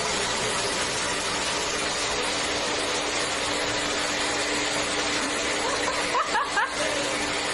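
Steady rushing noise with a constant low hum, like a small motor or fan running. About six seconds in, a few short rising squeaks sound over it.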